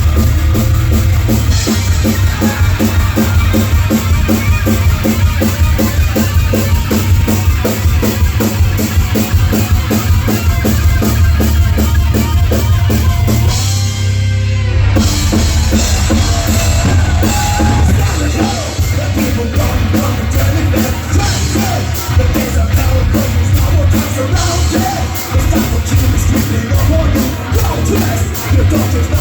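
Heavy metal band playing live and loud, the drum kit driving a fast, even beat under heavy bass, with a short break about halfway through before the full band comes back in.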